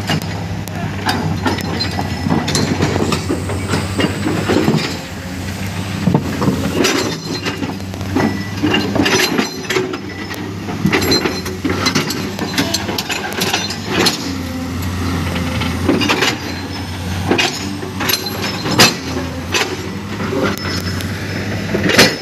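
Diesel engine of heavy construction machinery running steadily, with frequent clanks and knocks of rock and metal.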